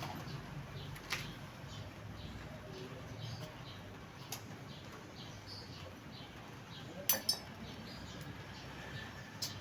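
A few sharp metallic clinks of metal tools and parts being handled, two loud ones close together about seven seconds in, over a steady low hum.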